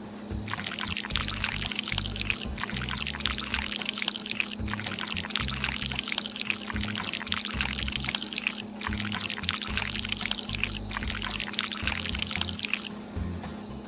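Melted gummy candy being poured into an ice cube tray: a crackly pouring sound in stretches of a few seconds with short breaks, over background music.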